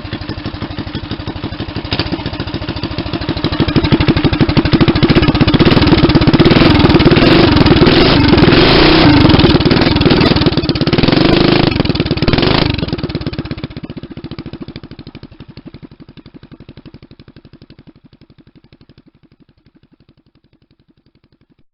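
Small single-cylinder Briggs & Stratton Raptor engine on a homemade mini-bike running and revving loud, then fading steadily over several seconds as the bike moves off into the distance.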